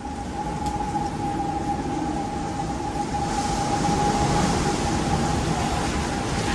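Typhoon wind blowing hard with a steady whistling tone over the noise of the gusts, which grow a little stronger about three seconds in.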